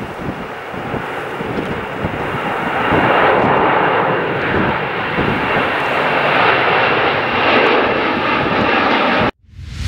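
Airbus A300-608ST Beluga's turbofan engines at takeoff power, a loud steady roar that builds over the first few seconds and then holds. It cuts off abruptly near the end.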